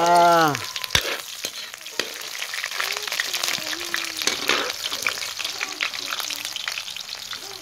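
Garlic, onion and ginger frying in hot oil in a steel wok, sizzling and crackling steadily, while a metal spatula stirs and scrapes against the pan. A sharp click about a second in.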